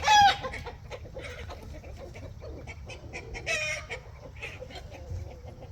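Chickens clucking: a series of short calls, the loudest right at the start and another about three and a half seconds in.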